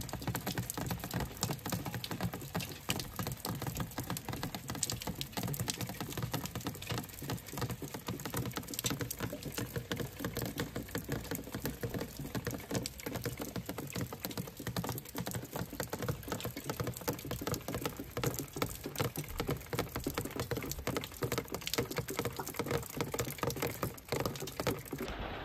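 Steady rain falling on a wet concrete patio and yard, a dense patter of drops.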